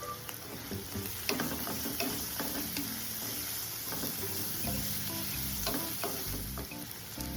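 Food frying in oil in a pan with a steady sizzle, while a utensil stirs it and clicks against the pan now and then.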